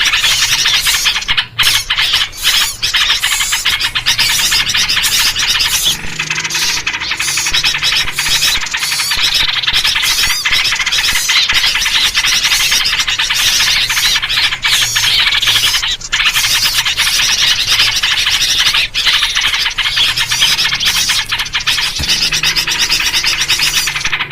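Many small birds chattering and chirping at once, a dense and continuous noisy bird-lure chorus built around sooty-headed bulbul (trucuk) calls.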